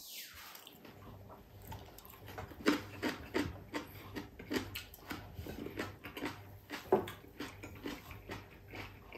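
Close-miked chewing of crispy deep-fried chicken-feet chicharon: irregular crunches, several a second, loudest a few seconds in and again about seven seconds in.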